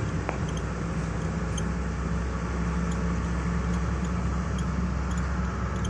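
Car engine running steadily with road noise, heard from inside the cabin while it drives a rough mountain road, with faint light rattles.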